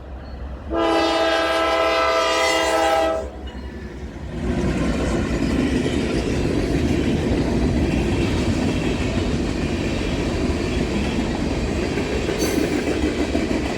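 Diesel freight locomotive's multi-chime air horn sounds one long blast of about two and a half seconds. Then the freight train rolls past with steady wheel-on-rail rumble and clatter.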